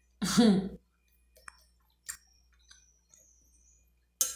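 A woman's short murmured vocal sound with a mouthful of chicken soup, then faint chewing and scattered wet mouth clicks as she eats. Near the end, a sharper click as the metal spoon goes back into the glass bowl.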